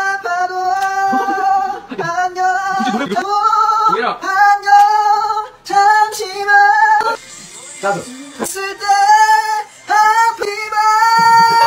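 A high singing voice holding long notes with vibrato, in short phrases of one to two seconds separated by brief breaks.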